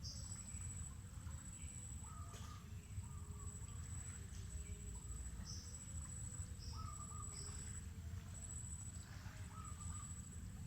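Mangrove forest ambience: an insect buzzes in a steady high-pitched drone, while birds call with short chirps at a few different pitches every second or two, over a low steady rumble.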